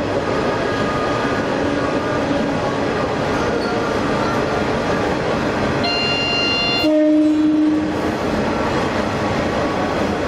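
Diesel railcar running through a tunnel: a steady rumble of engine and wheels on the rails, heard from the driver's cab. About six seconds in the train's horn sounds, first a high tone for about a second, then a lower, louder tone for about a second.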